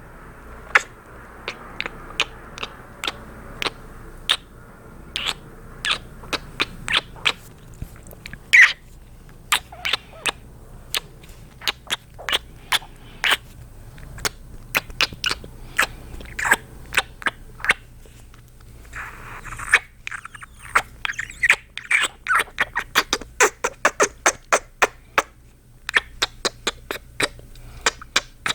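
Close-miked kissing sounds from a man's lips: a long run of wet smacks, sometimes spaced out and sometimes in quick clusters, with a breathy stretch about two-thirds through.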